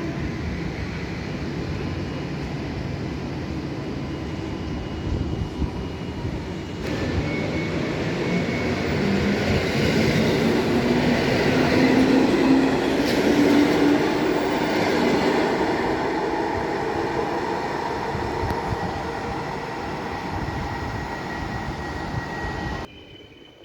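Train running along the tracks with a steady rumble, a whine rising in pitch through the middle as it gets louder; the sound cuts off abruptly near the end.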